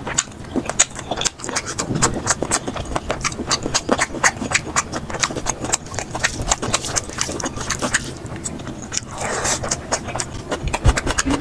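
Rapid, wet chewing and lip-smacking of someone eating curry with rice, sped up to double speed so the clicks come thick and fast, with a brief slurp about nine seconds in.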